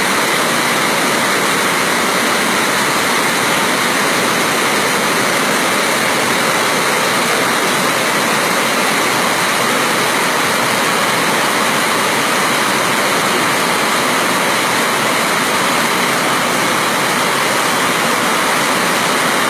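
Loud, steady rush of fast-flowing floodwater, an even noise that does not change.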